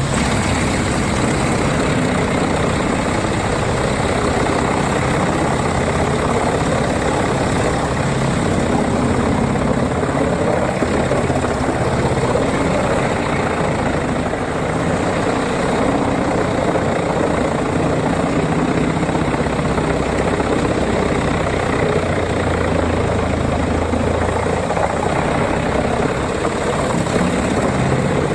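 Crane-fed forestry wood chipper running steadily, its engine noise mixed with the clatter of wood being chipped.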